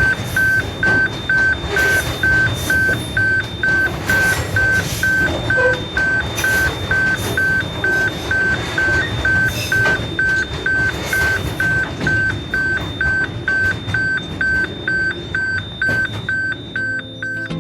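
Railway level crossing alarm beeping steadily about twice a second, over a continuous low rumbling noise.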